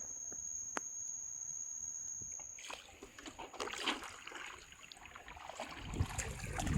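Water sloshing and splashing around a small boat on the water. A steady high-pitched whine runs through the first couple of seconds, and low rumbling builds near the end.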